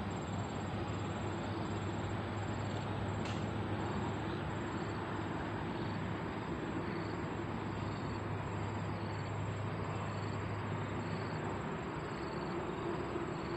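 Insects chirping steadily, a thin high tone with short pulses repeating about every second, over a steady low hum and background noise. A single faint click about three seconds in.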